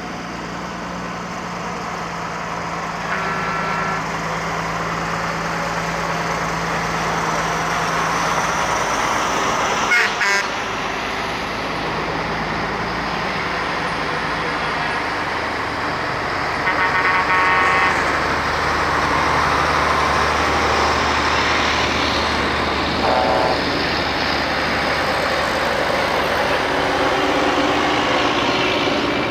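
Heavy trucks driving past one after another with their engines running. A short horn toot comes about three seconds in, a longer horn blast a little past halfway, and a brief toot soon after. A sharp knock sounds about a third of the way through.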